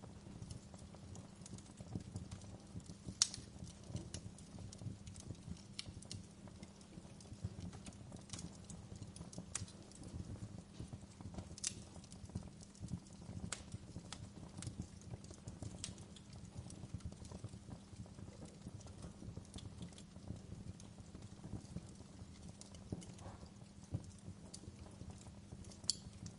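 Wood fire crackling in a fireplace: a steady low rumble of burning wood with irregular sharp pops and snaps, the loudest about three seconds in.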